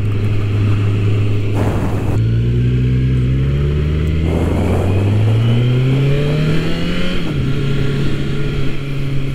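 Motorcycle engine running steadily, then pulling with its pitch rising for about five seconds as the bike accelerates, before the pitch drops about seven seconds in and holds steady.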